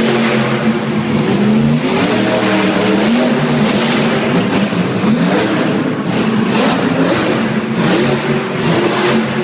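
Monster truck's supercharged V8 engine revving up and down repeatedly, loud, with pitch rising and falling several times.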